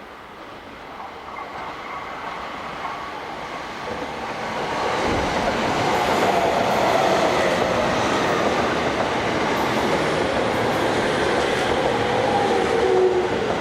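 An electric commuter train running on the track. It grows louder over the first six seconds and then holds steady, with a thud about five seconds in and faint whining tones that drift lower near the end.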